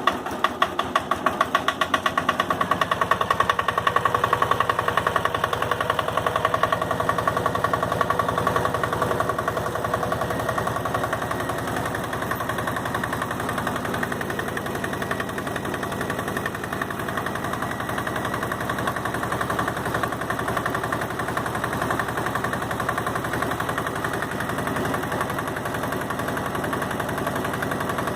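Yanmar YM122 garden tractor's 12 hp single-cylinder liquid-cooled diesel running just after a cold start, with a fast, even clatter of knocks typical of a cold diesel. It runs louder for the first several seconds, then settles to a slightly quieter steady idle.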